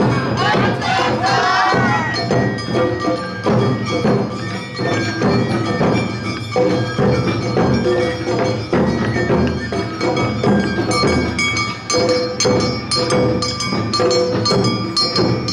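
Awa Odori narimono band playing the dance rhythm: drums and a struck kane bell keeping a steady beat under a held bamboo-flute melody. Voices call out over it in the first two seconds.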